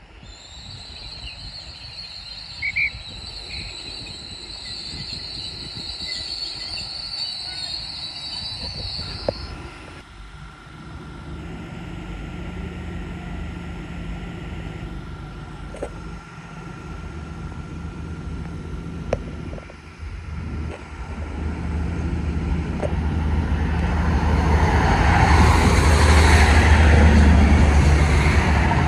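Diesel multiple unit approaching and running past close by: a low engine drone grows louder through the second half and peaks with wheel and rail noise near the end. Earlier there is a steady high-pitched whine.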